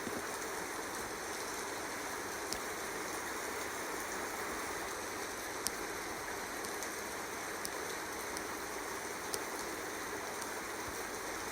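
Steady rain ambience: an even hiss of falling rain with a few faint, sharp drop ticks now and then.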